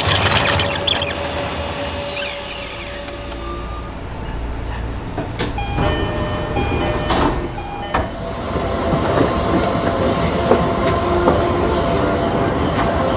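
Electric commuter train running on track at speed, with a whine falling in pitch near the start and steady rail and running noise, while another train runs alongside on the next track.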